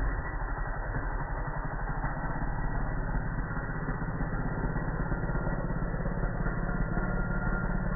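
Small nitro RC monster truck engine idling steadily with a fast, even putter.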